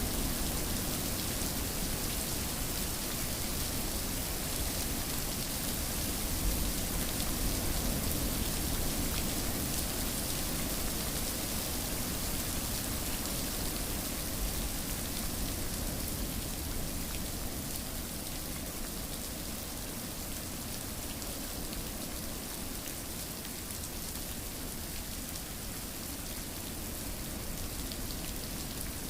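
Steady rain falling, an even hiss of drops on surfaces with no distinct events, easing slightly in loudness in the second half.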